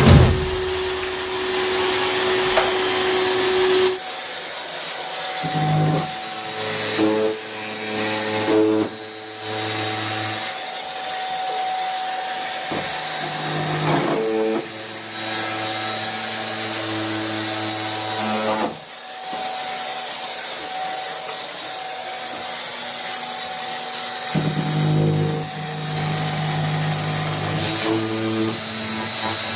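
An electric motor running in long stretches, its pitch and load shifting several times.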